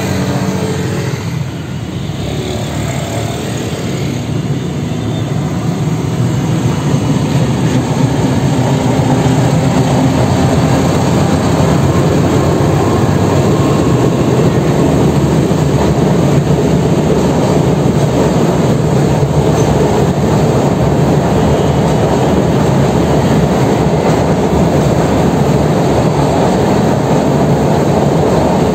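Passenger train crossing an overhead steel railway bridge: a loud, steady rumble of wheels on rails and bridge that builds over the first several seconds and then holds.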